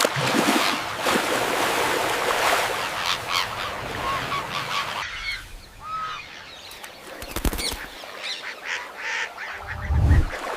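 Waterfowl honking and calling, many overlapping calls, thinning out abruptly about halfway through. A low thud comes near the end.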